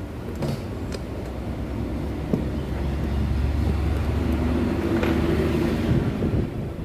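A motor vehicle engine running with a low rumble. It grows louder about two seconds in and eases off near the end, with a few light clicks over it.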